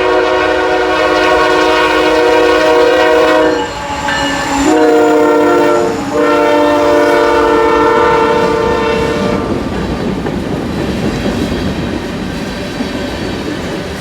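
Freight locomotive's multi-chime air horn blowing for a grade crossing: a long blast, a shorter one and another long one that ends about nine and a half seconds in. After that the train rumbles past, its wheels clacking over the rail joints.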